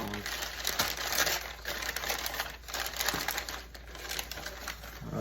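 Packaging rustling and crinkling in a steady, irregular run with small clicks as a model locomotive is unwrapped.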